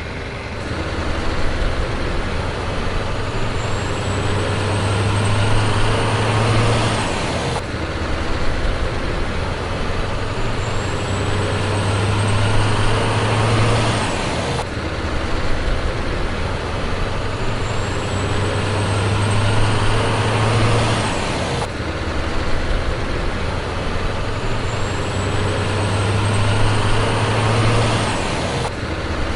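A heavy truck engine revving, played as a loop that repeats about every seven seconds. Each pass rises slowly in pitch and then cuts off abruptly, four times in all.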